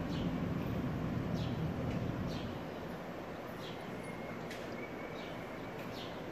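A bird chirping over and over, short high falling chirps about once a second, over a low background rumble that eases off a couple of seconds in.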